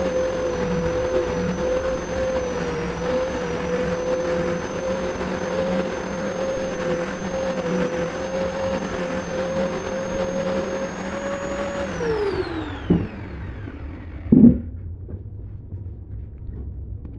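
Electric woodworking power tool running at a steady high speed, then switched off about twelve seconds in and spinning down, its pitch falling away. Two sharp knocks follow, the second the louder.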